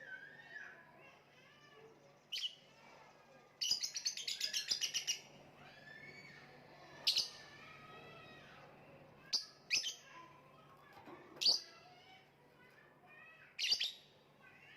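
Lovebird calling: sharp, high single chirps every second or two, with a fast rattling trill of about eight notes a second lasting a second and a half near four seconds in, and softer lower chirps in between.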